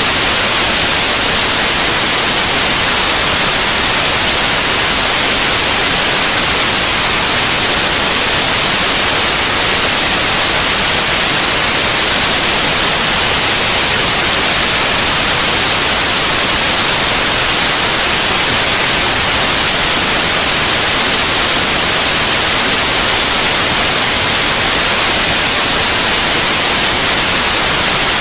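Steady, loud white noise: a constant, unchanging hiss with most of its energy in the high frequencies, played as a sleep sound for babies.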